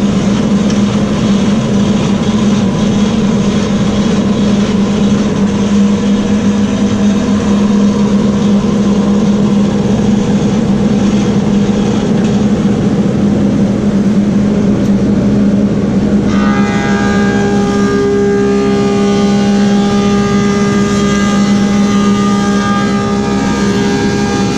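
Woodmaster thickness planer running steadily at full noise, planing white oak boards: a steady hum under a dense rushing noise. About two thirds of the way through the sound changes and a set of clearer, higher whining tones comes in.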